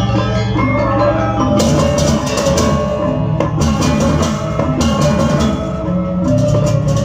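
Balinese gamelan playing a bebonangan-style piece: bronze gong-chimes and gongs ringing with drums, and clashing cengceng cymbals joining in fast bursts about a second and a half in, partly heard through a sound system.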